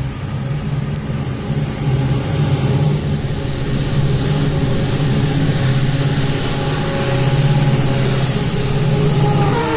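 Approaching train's locomotive running with a steady low rumble that grows louder. Its horn starts to sound right at the end.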